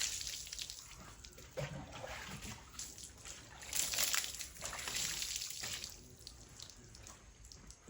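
Water splashing and trickling over a motorcycle being washed, in several uneven bursts, the loudest about four seconds in.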